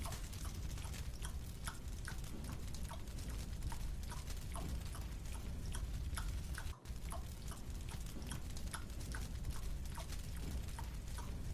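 Close-up chewing of a marshmallow: soft, sticky mouth clicks and smacks, a few per second, over a steady low hum. The sound drops out briefly about seven seconds in.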